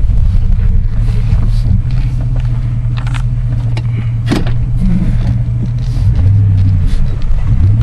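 1999 Lincoln Town Car's 4.6-litre V8 running with a steady, loud low exhaust drone through its stock exhaust; the note shifts lower about six seconds in. A short sharp click is heard about four seconds in.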